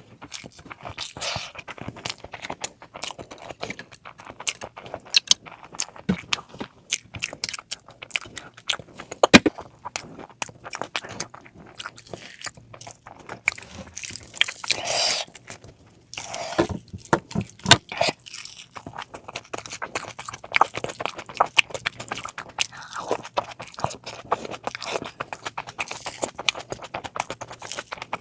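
Close-miked chewing and biting of a person eating curry: a dense run of sharp smacks and crunches, with a louder stretch about halfway through.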